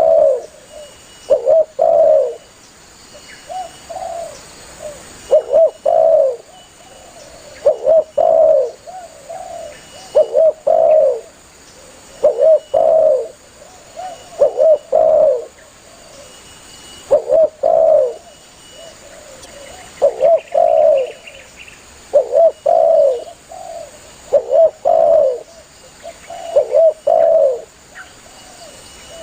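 Spotted dove (tekukur) cooing over and over: a short phrase of a few low coo notes, repeated about every two seconds.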